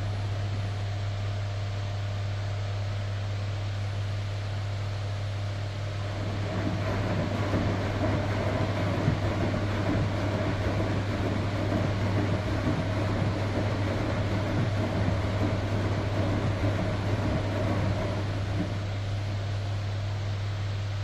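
Electrolux Professional WN6-20 commercial washing machine agitating during its final rinse: motor and drum running over a steady low hum. The sound grows louder and busier from about six seconds in until near the end.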